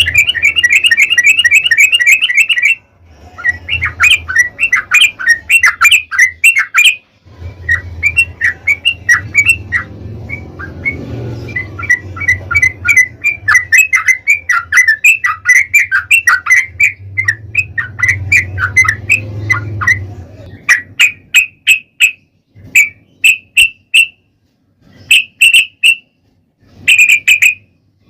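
Yellow-vented bulbul (trucukan) singing in long, fast chattering runs of sharp notes, its rapid 'ropel' song, breaking into shorter separate phrases in the last several seconds. A low hum runs beneath the longer runs.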